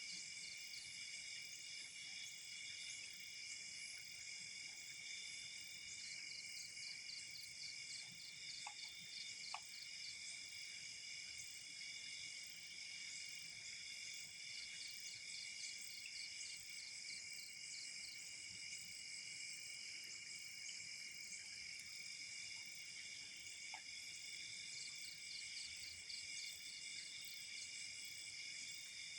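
Night insect chorus: several insects such as crickets trilling steadily at a high pitch, with runs of fast pulsed chirping coming and going. A couple of faint clicks stand out briefly.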